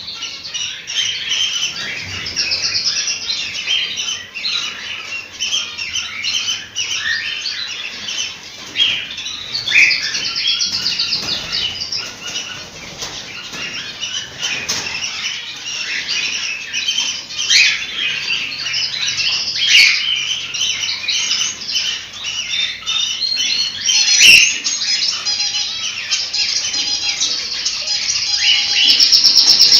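A flock of cockatiels chirping and calling, a dense overlapping chatter of short high notes, with a few sharp clicks among them. A fast, even, high trill starts just at the end.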